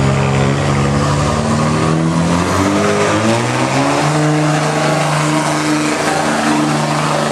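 Diesel pickup truck engine running hard under load, as in a truck pull. Its pitch climbs between about two and four seconds in and then holds high and steady.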